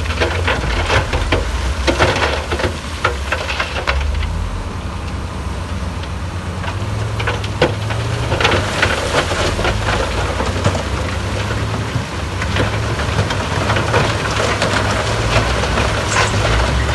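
Heavy diesel construction machine running steadily, with many sharp clanks and crackles over it, thickest in the first few seconds and again about halfway through.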